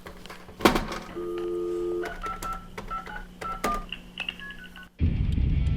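A telephone dial tone sounds briefly, then a quick run of touch-tone keypad beeps as a number is dialled, with a few clicks of the handset and keys. A louder steady background sound comes in near the end.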